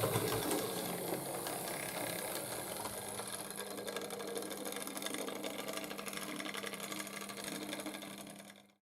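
Hornby Dublo LNER tank locomotive running, its horseshoe-magnet motor giving a steady hum over a fine, rapid clicking. The sound fades gradually and cuts off just before the end.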